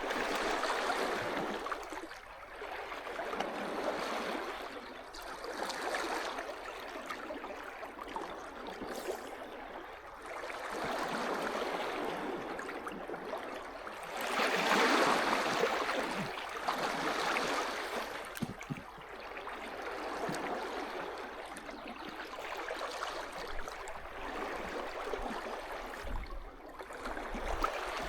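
Small sea waves washing onto the shore, the rush of water swelling and ebbing every few seconds, with the biggest wash about halfway through.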